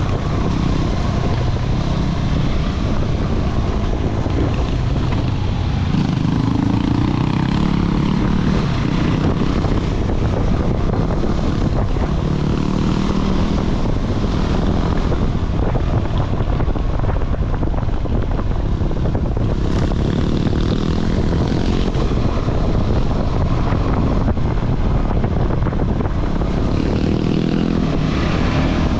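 KTM 390 Adventure single-cylinder motorcycle engine running under varying throttle on a trail ride, its note rising and falling several times, with heavy wind rushing over the microphone throughout.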